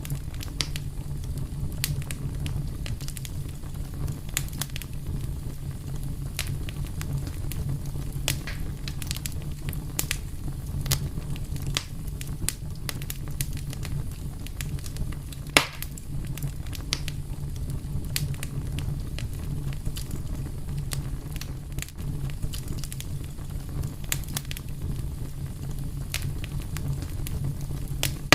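Wood fire burning steadily with a low rumble and frequent crackles and pops, one louder pop about halfway through.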